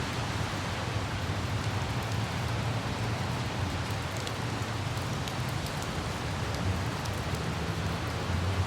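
Steady rain falling and pattering on hard surfaces, with a low hum of light city traffic underneath that grows a little louder near the end.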